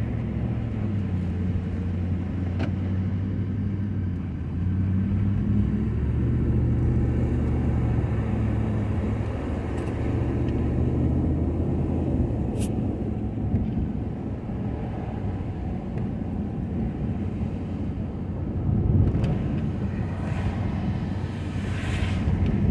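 Ford F-250 pickup engine running as the truck drives, with a steady low hum that grows louder about four and a half seconds in and eases off again after about thirteen seconds.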